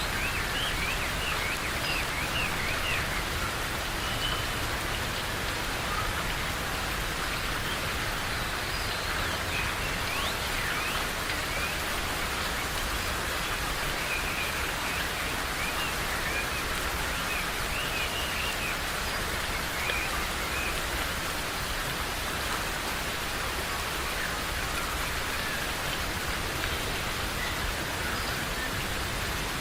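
Steady rain falling, with small birds chirping here and there, mostly in the first few seconds and again around a third and halfway through.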